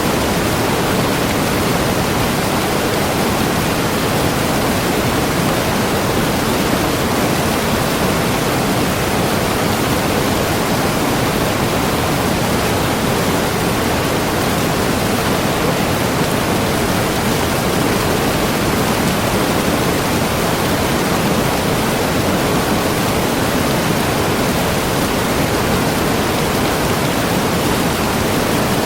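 Waterfall crashing steadily, a dense unbroken rush of water with no changes.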